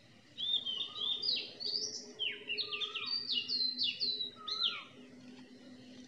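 A songbird singing a rapid, varied run of short high notes, most of them sliding down in pitch, starting about half a second in and stopping about five seconds in. A faint steady low hum lies underneath.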